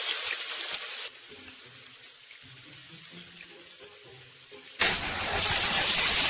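Running water, like a tap running into a sink: a hiss that drops away about a second in, then a few quieter seconds, then a sudden louder rush of noise near the end.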